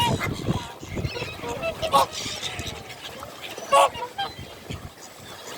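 A crowd of birds calling as they compete for food, with two loud, short, harsh calls about two seconds in and just before four seconds, among fainter calls.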